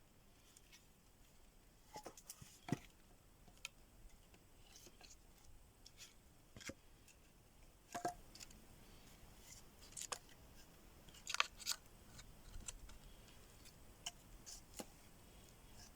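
Scattered sharp clicks and snaps, about a dozen spread irregularly, with the strongest ones a few seconds in and again around the middle.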